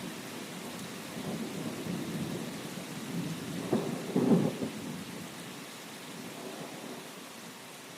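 Steady rain hissing with a low rumble of thunder that swells loudest about halfway through, then dies away.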